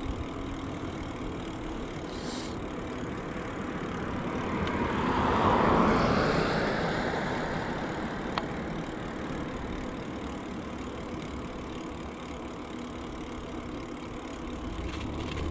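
A car passing from behind, its tyre and engine noise swelling to a peak about six seconds in and then slowly fading.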